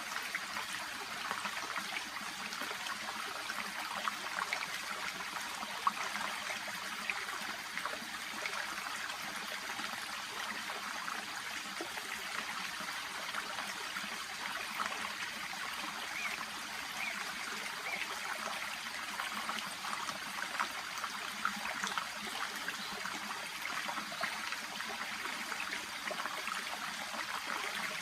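Shallow brook babbling steadily: a continuous rush of running water with small trickles and splashes flickering through it.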